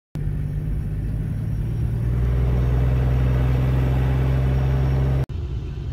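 Car engine running steadily with a loud, low hum. It cuts off suddenly about five seconds in, and a quieter rumble follows.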